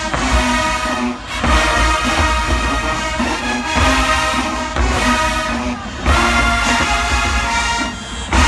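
Large marching band's brass section playing full chords over heavy bass drum hits, about one a second.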